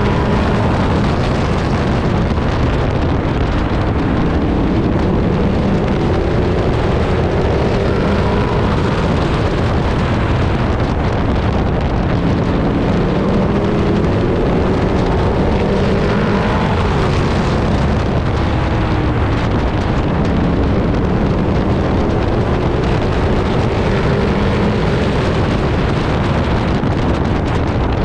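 Race truck's engine running hard, heard through an onboard camera inside the cab, its pitch repeatedly rising and falling as it accelerates and lifts. Heavy wind and road noise runs underneath.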